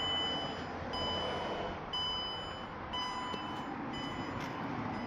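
Van's warning chime beeping steadily, about once a second, each beep about half a second long, over a steady background hiss.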